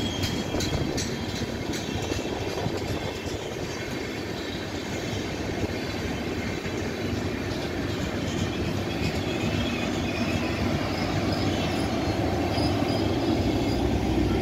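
Passenger train coaches rolling past on the rails, their wheels clicking rhythmically over the rail joints at first, then settling into a steady rumble. The rolling noise grows louder again over the last few seconds.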